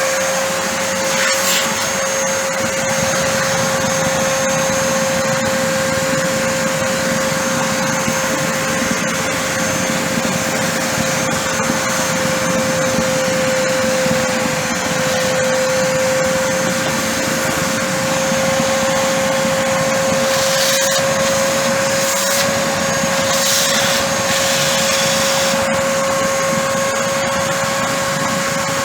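Genesis water-filter vacuum cleaner running steadily with a high motor whine. A few short rushes of hiss come about two-thirds of the way through.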